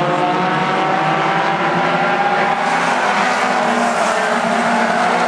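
A field of mini stock race cars running at racing speed around the track, several engines at once, their pitches slowly rising and falling as the cars go by.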